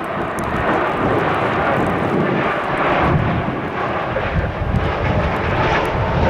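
Jet engines of an Airbus A320neo-family airliner, a loud steady rush of engine noise, with wind rumbling on the microphone.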